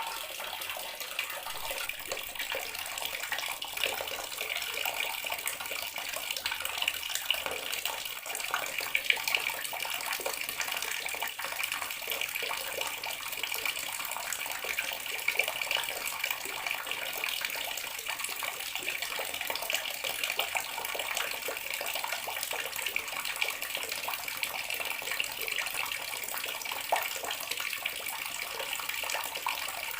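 Water running steadily from a bathroom sink tap into the basin, a continuous splashing hiss.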